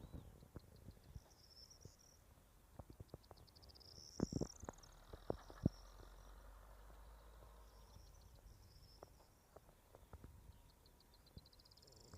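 Faint, high-pitched trilled animal calls in short phrases every few seconds, some rising in pitch, with scattered soft clicks.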